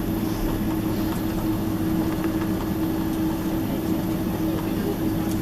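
Steady cabin noise inside a Boeing 767-300ER taxiing after landing: engines at idle and air-conditioning airflow, an even rushing hum with one steady held tone.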